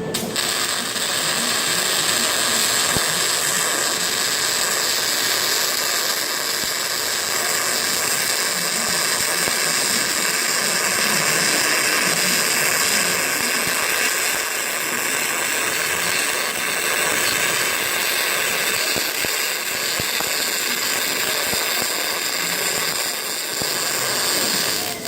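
Robotic welding arc on stainless steel, a steady hiss that starts abruptly and cuts off abruptly near the end as the weld run finishes.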